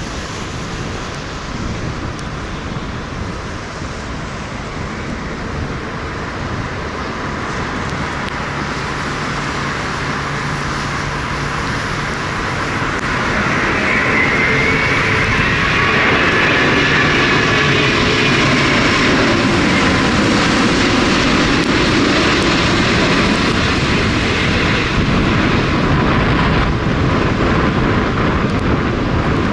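Jet airliner on approach to land, its engine noise and whine building from about halfway through and staying loud, over gusty wind on the microphone.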